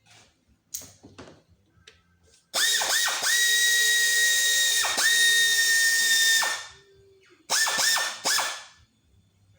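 Power drill motor running in trigger bursts: it spins up with a rising whine, runs steadily for about four seconds with two quick restarts, then gives three short bursts near the end.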